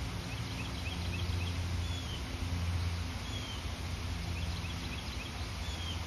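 Small birds calling: a short down-slurred whistle repeated every second or two, and two quick runs of chips, over a steady low hum.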